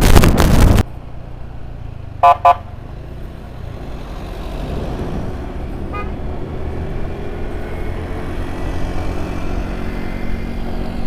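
Two short vehicle horn toots about two seconds in, over steady engine and road noise while riding. A loud burst of wind noise on the microphone fills the first second.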